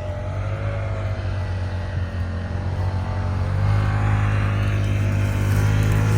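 Off-road vehicle's engine pulling up a steep slope in first gear, running steadily and then working harder and louder from a little past halfway.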